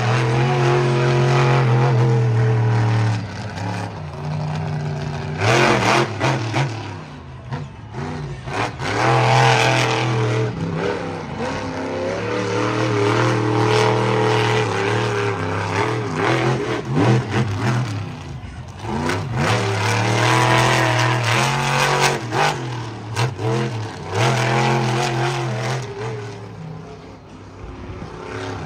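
A monster truck's supercharged V8 engine revving hard, its pitch rising and falling over and over as the throttle is worked, with brief lulls between bursts.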